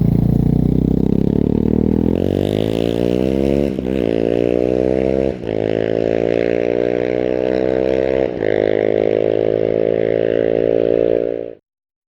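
Husqvarna 701's single-cylinder engine with an aftermarket Mivv exhaust, accelerating hard: the engine note climbs, dips briefly three times as it shifts up through the gears, then cuts off suddenly near the end.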